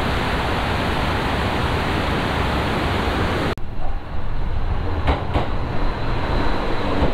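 A steady rushing noise that cuts off abruptly about three and a half seconds in. A train's running noise follows, with a couple of clicks.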